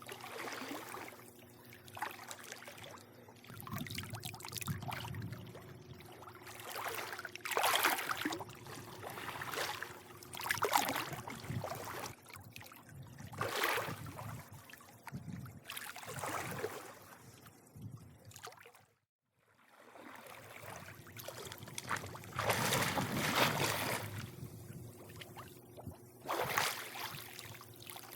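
Swimming-pool water lapping and sloshing in irregular surges every second or two, over a faint low steady hum. The sound cuts out completely for about a second roughly two-thirds of the way through.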